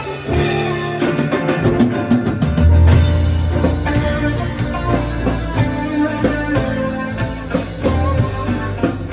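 Live band playing an instrumental passage before the vocals come in: guitar over bass and a drum kit keeping a steady beat.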